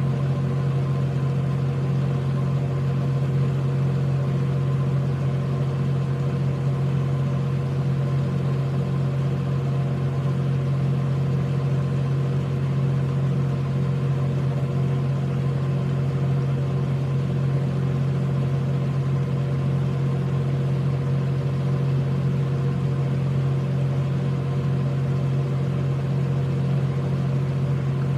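Steady, unchanging low machine hum: a strong low drone with several fainter steady tones above it.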